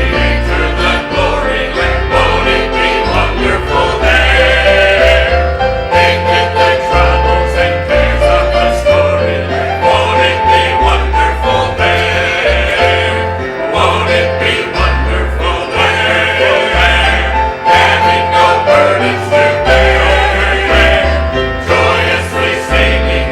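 Gospel music: a group of voices singing a hymn with instruments and a bass line that steps from note to note.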